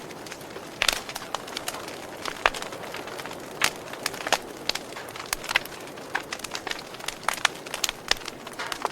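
Wood fire crackling, with irregular sharp pops and snaps over a soft steady hiss of burning.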